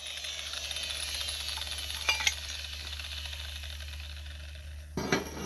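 Metal clinks and clatter from steel pieces being handled: a couple of sharp clicks about two seconds in and a short rattle near the end, over a steady low hum.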